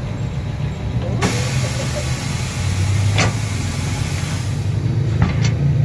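A motor running steadily with a low hum, with a few sharp clicks or taps over it.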